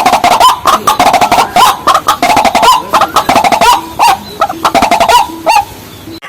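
Waterhen-type rails calling: a loud, dense run of short repeated notes, several a second, with sharp clicky onsets. It thins out and quietens near the end, then breaks off abruptly, the way an edit or loop does.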